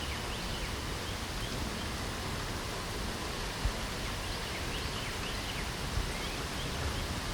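Steady light rain hiss with small birds chirping in short, high notes throughout. Twice, a brief low thump.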